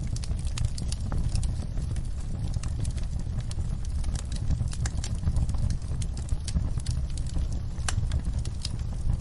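Wood fire in a fireplace crackling, with sharp irregular pops and snaps over a steady low rumble of burning.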